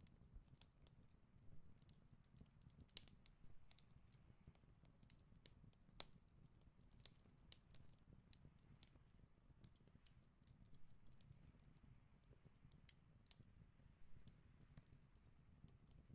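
Faint, irregular snipping clicks of scissors cutting through pattern paper, over a low steady room hum.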